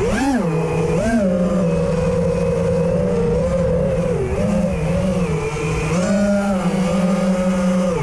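Racing quadcopter's brushless motors and propellers whining in flight, the pitch jumping up with throttle punches about half a second and a second in, then holding fairly steady with smaller dips and rises. The quad has a fault that the owner had not yet found.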